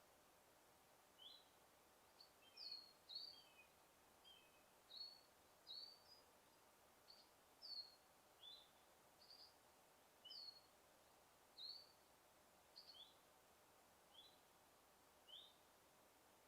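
Small songbirds chirping in a forest: short, high chirps repeated about once a second over a faint steady hiss, with a few softer, lower chirps among them in the first few seconds.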